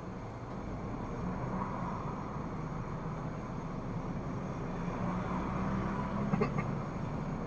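A car on the move: steady engine and road noise, with a couple of brief knocks near the end.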